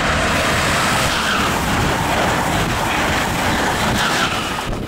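High-speed electric passenger train passing right beside the platform: a loud rush of wheels on rail and wind, with a few brief squeals. It cuts off suddenly near the end.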